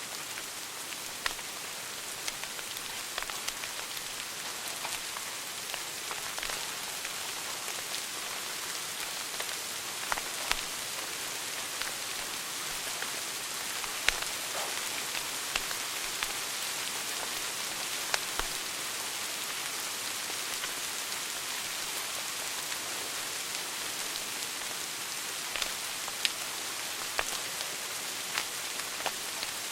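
Wood fire burning in a fireplace, crackling: a steady hiss with scattered sharp pops at irregular intervals, a few louder ones among them.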